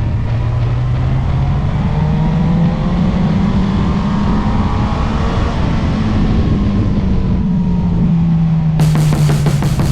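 Motorcycle engine running under way, its pitch rising for a few seconds and then slowly falling as the throttle is eased.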